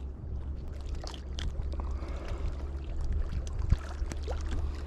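Low wind rumble on the microphone, with scattered light clicks and ticks.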